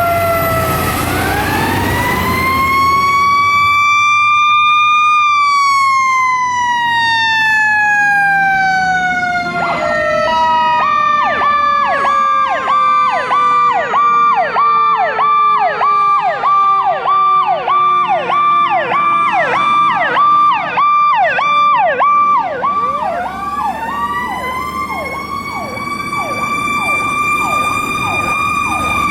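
Fire truck sirens. One wails up and then falls slowly over about fifteen seconds. From about ten seconds in, another yelps rapidly at about two cycles a second, and near the end a siren winds up again.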